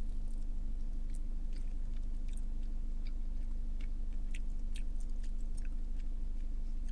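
Close-up chewing of a sauced chicken wing: soft, irregular wet clicks and smacks over a steady low hum.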